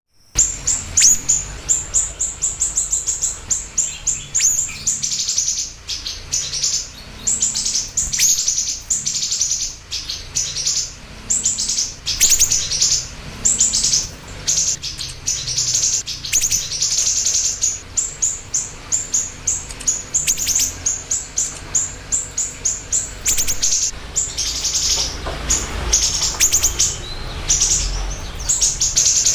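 Siri-siri bird singing full-voiced: rapid high chirps and trills, repeated almost without pause, as used for a masteran (tutor) and pancingan (lure) song.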